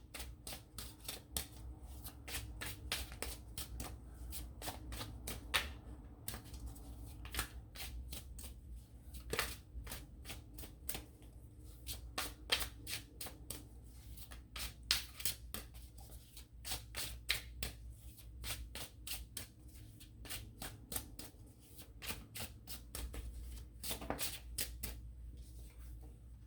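Tarot cards being shuffled by hand: an irregular run of soft card clicks and flicks.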